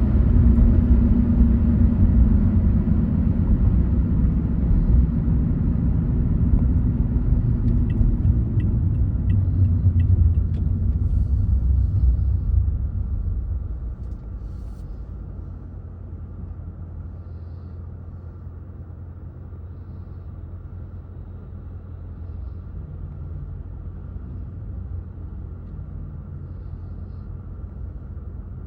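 Car driving on a highway: a steady low rumble of tyres and engine, which drops to a noticeably quieter level about 13 seconds in.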